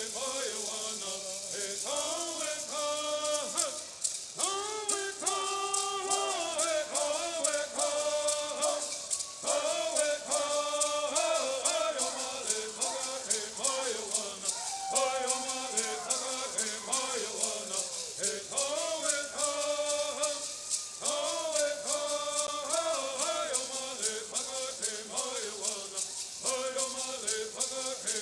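Bird singing: male voices singing a bird song to the steady, quick shake of gourd rattles, the sung melody rising and falling in repeated phrases.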